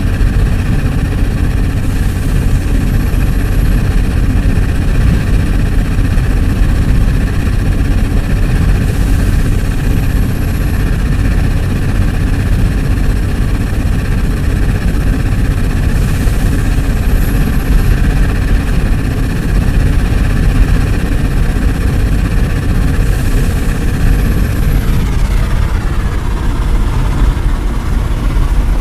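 Heavy engine of a concrete pump running loud and steady, with a faint repeating sound about every seven seconds. Some of its tones fall in pitch near the end.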